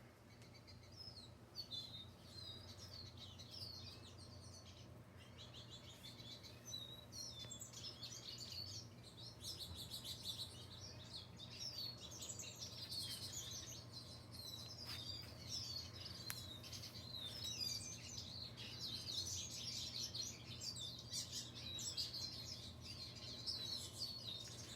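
Many small birds chirping and twittering together, a dense chorus of short high calls that grows busier partway through.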